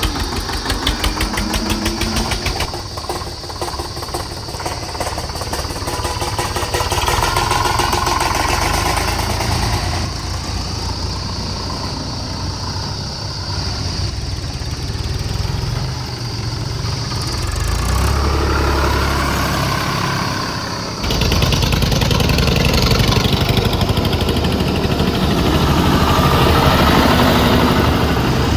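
Diesel tractor engine running under load, knocking and changing revs as it works. The sound changes abruptly about three-quarters of the way in.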